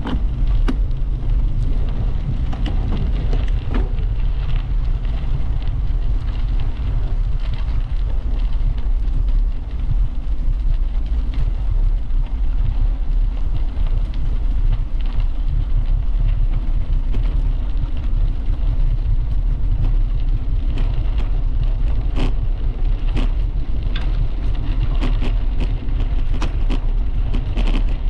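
Wind rumbling on the microphone of a camera mounted on a moving bicycle, with tyre noise on the path and scattered sharp clicks and ticks that come thicker near the end.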